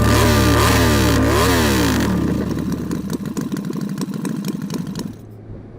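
Motorcycle engine revved up and down several times in quick succession, then dying away with a light rapid clatter until it drops off about five seconds in.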